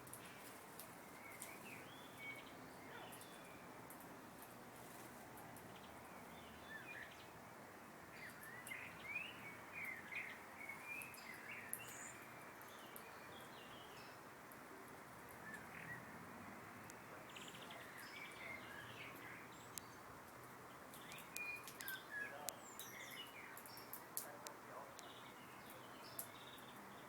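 Small garden birds, finches and tits, giving short high chirps and calls. The calls come in flurries, with a few sharp clicks among them, over a faint steady hiss.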